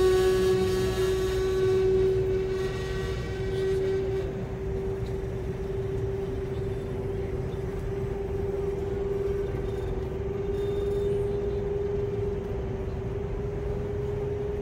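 Cabin noise of a Chinese high-speed CRH train running: a steady low rumble with a constant hum on top. Fainter higher tones fade out about four seconds in.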